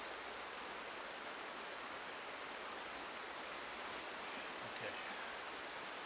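Steady rushing of flowing river water, with a couple of faint ticks about four seconds in.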